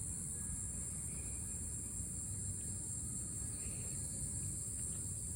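A steady, high-pitched insect chorus keeps up throughout, over a low rumble.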